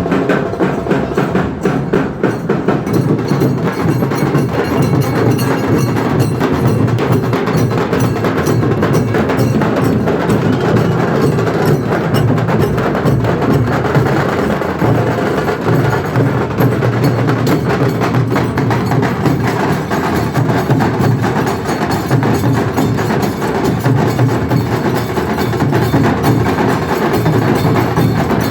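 A dhol-tasha troupe playing a fast, driving rhythm: massed dhol drums beaten together with sharp, rapid tasha strokes and clashing cymbals, loud and unbroken throughout.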